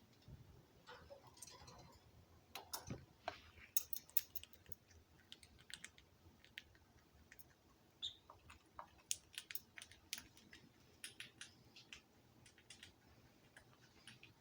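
Faint, irregular clicks and taps from caged pet birds, a few at a time, with a brief high peep about eight seconds in.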